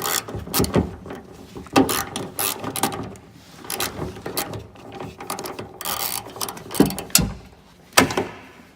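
Irregular metallic clicks and clacks of a car door's latch and linkage being worked by hand, just after its connecting rod has been hooked up, with a few louder knocks near the end.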